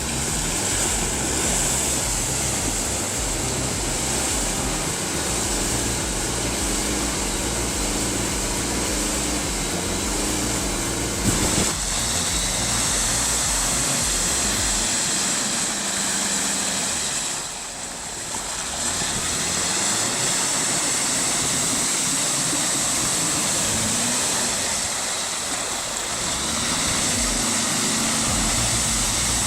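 Off-road truck engine running steadily, with a constant rushing hiss over it. The sound dips briefly about two-thirds of the way through.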